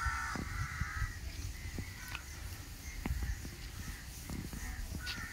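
A bird calling once, a pitched call about a second long at the start, then scattered soft thuds of footsteps along a dirt path.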